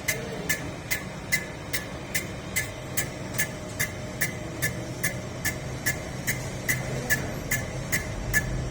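Cylinder-head refacing machine running with a steady hum and a sharp, regular tick about two and a half times a second.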